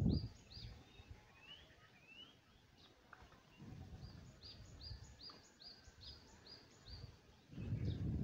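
A bird chirping in quick runs of short, high notes, about four a second, with a couple of rising whistled notes between the runs. Under it lies a low background rumble that swells near the start and again near the end.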